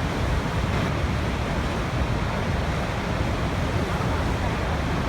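Waterfall: water pouring and splashing in a steady, unbroken rush, heaviest in the low end.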